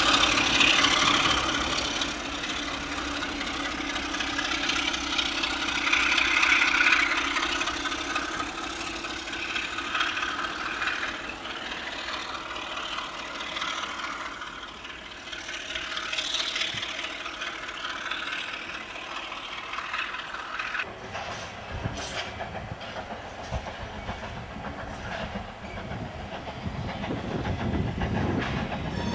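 A passenger train running past on the line, with a steady rush of noise. About two-thirds of the way through this gives way to sharp clicks of wheels over rail joints and a deeper rumble that grows louder toward the end.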